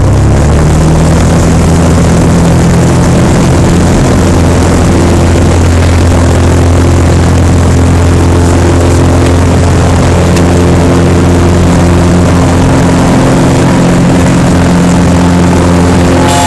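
Cessna 182P's six-cylinder Continental O-470 engine and propeller rising quickly to full power, then running steadily at takeoff power.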